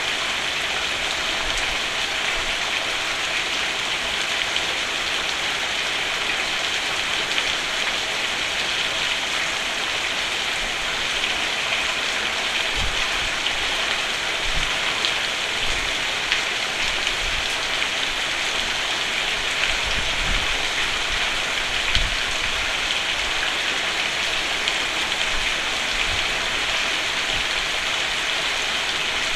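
Steady rain falling on a roof, an even hiss of drops. A few brief low thuds come near the middle.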